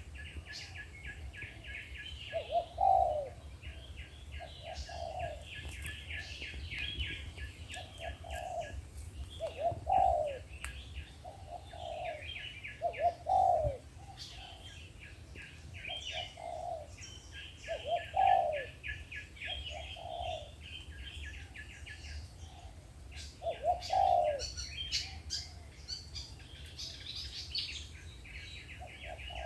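Spotted doves cooing: short groups of low, rolling coos repeated every few seconds, as a decoy dove and a wild dove call back and forth. Behind them, a fast, even, high-pitched chattering trill from another bird runs on in long stretches.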